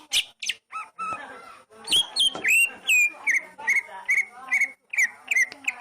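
Oriental magpie-robin singing: a fast run of clear whistled notes, several a second, many sliding sharply down in pitch, mixed with short rasping chatter.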